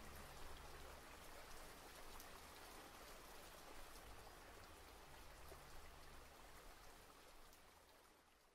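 Faint patter of rain, a soft even hiss dotted with light ticks, fading out near the end.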